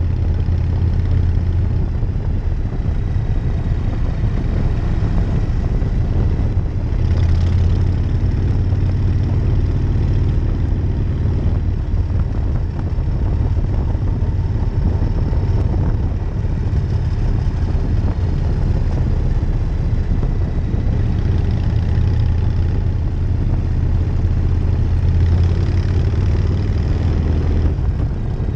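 1999 Harley-Davidson Night Train's V-twin engine running steadily under way, a loud low exhaust note throughout with rushing noise above it. The sound swells briefly about seven seconds in and again near the end.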